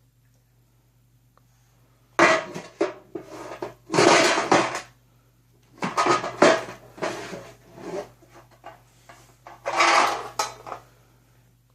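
Clattering and rattling of small hard objects being handled, in three spells: about two seconds in, around six seconds in, and near ten seconds in.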